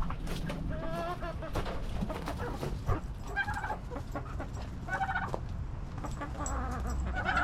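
Chickens and other poultry clucking and calling, a few short calls spread over several seconds, over a steady low rumble.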